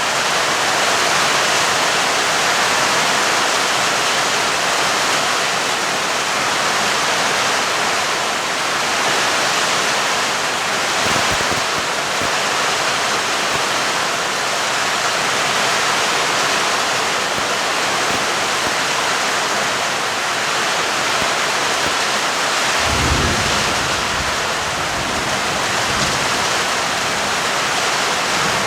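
Steady heavy rain falling as a dense, even hiss. Low thunder rumbles come in briefly just before the middle and again, longer, near the end.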